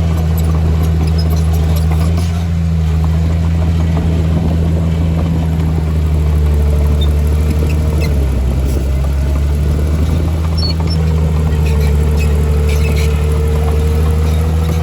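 Heavy diesel engine of earthmoving equipment running steadily. Its pitch dips briefly about eight seconds in, and a faint whine rides above it for a few seconds at a time.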